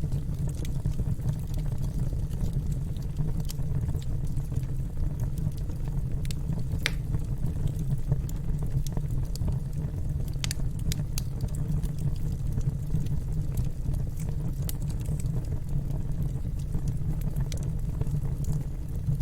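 Wood fire burning in a fireplace: a steady low rumble with scattered crackles and pops, two of them louder about seven and ten and a half seconds in.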